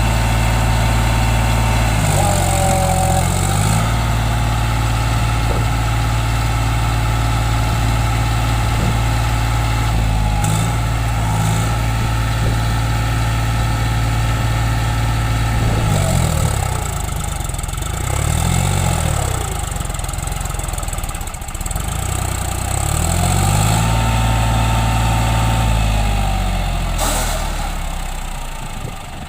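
John Deere 5050D tractor's three-cylinder diesel engine running steadily, its pitch dropping and coming back up several times as the engine is loaded and eased off.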